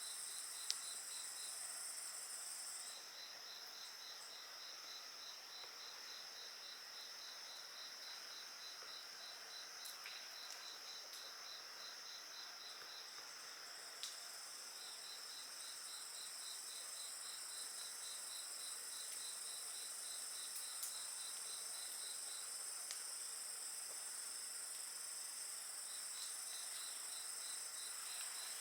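Crickets and other night insects singing: steady high trills under a regular chirp of several pulses a second that pauses now and then. A few sharp pops from a wood fire crackling break in.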